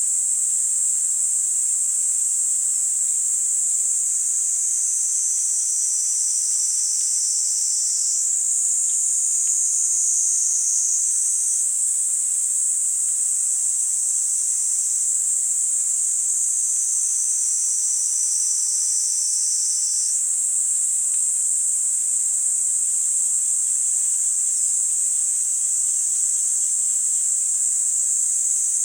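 Kaempfer cicada (niinii-zemi) singing: one continuous high-pitched buzzing trill with no breaks. Its pitch sags slowly and then snaps back up a few times.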